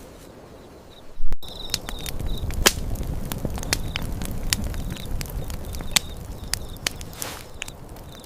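Crickets chirping, then a sudden loud burst about a second in and a campfire crackling with many sharp pops, the crickets still chirping over it.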